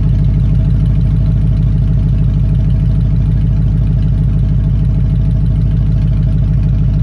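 Ford 4.6 L V8 idling steadily with an even, pulsing exhaust note after its exhaust manifolds have been refitted. It cuts off abruptly near the end.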